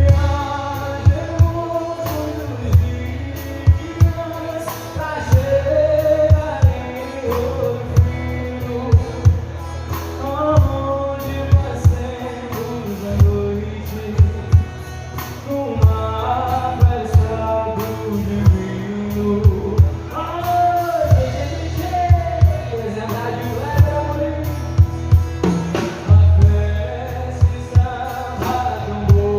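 Live sertanejo band music: an instrumental passage between sung verses, with melodic lead lines over a steady drum beat.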